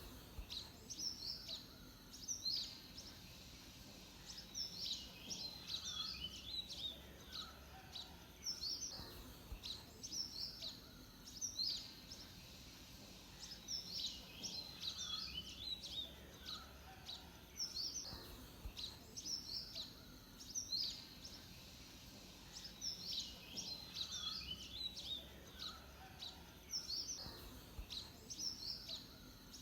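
Songbird singing in repeated bouts of quick, high chirping notes, each bout a few seconds long with short pauses between, over faint steady background noise.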